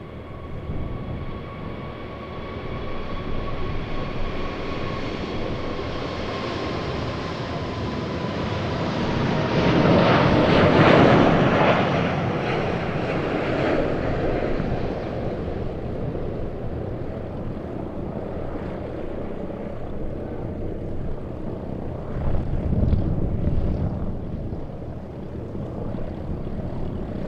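Airbus A380 passing by on its four Rolls-Royce Trent 900 jet engines: a steady engine roar with a whine that slides slowly down in pitch, loudest about ten seconds in, then fading, with a smaller low swell of engine noise near the end.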